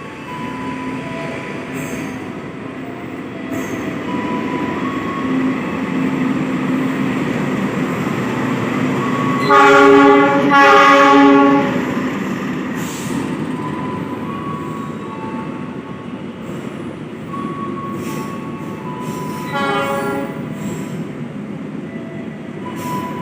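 Train running past with a steady rolling rumble, its horn sounded in two blasts about ten seconds in and once more, briefly, about twenty seconds in, with short wheel squeals now and then.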